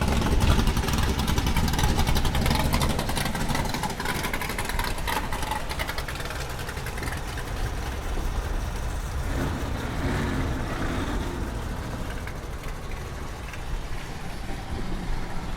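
A car engine running, a low rumble that is loudest for the first few seconds, then settles to a steadier, quieter level.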